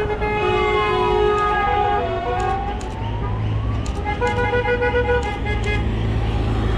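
Truck air horns sounding several tones at once, in two spells, while a siren-like tone slides down and then back up. A steady low engine rumble runs underneath.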